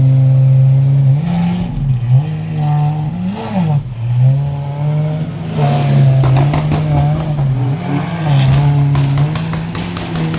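Lamborghini Aventador SVJ's V12 engine running at low revs, its pitch rising and falling in short swells several times with light throttle. There are a few sharp crackles about nine seconds in.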